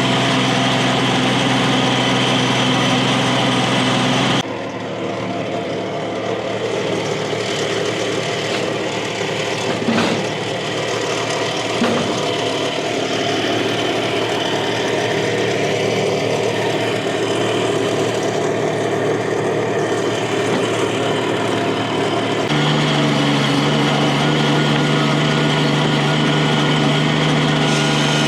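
A small engine running steadily, its note changing abruptly twice, with two short wooden knocks around the middle as boards are handled.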